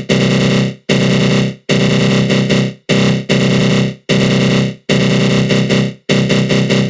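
Synthesized growl made with the GMS synth in FL Studio Mobile and run through a flanger: a harsh, buzzing tone that repeats in bursts of about a second, each fading out quickly before the next begins.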